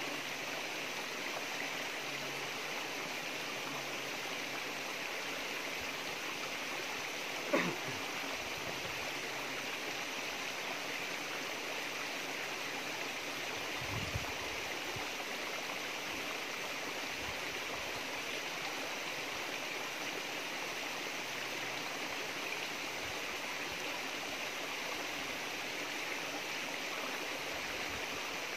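Steady rain falling, an even noise with no let-up. A brief sharp sound stands out about seven and a half seconds in.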